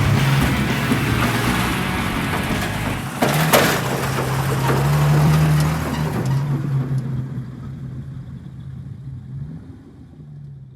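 A 1968 Ford Bronco's engine running as it is driven, its pitch stepping up and down. There is a sharp clunk about three seconds in, and the sound fades out over the last few seconds.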